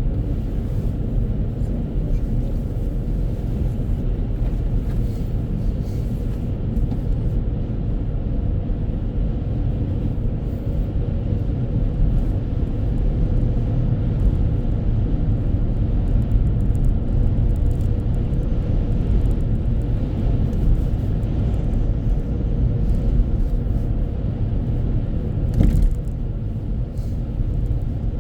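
Steady low rumble of a car driving, with a single short knock near the end.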